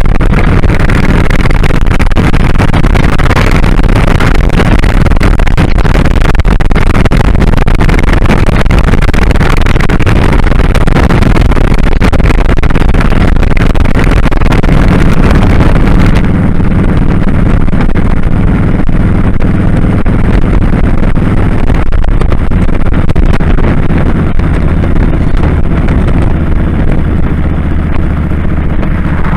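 2001 Kawasaki Drifter 1500's V-twin engine running while under way, almost buried under heavy wind rush on a microphone worn on the rider's glasses. About halfway through, the hissing top of the wind noise falls away and the engine's low drone stands out more.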